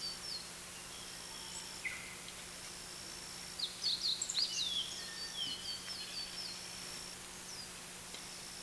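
Woodland songbirds singing over a steady background hiss, with repeated whistled phrases and a quick cluster of chirps about four seconds in.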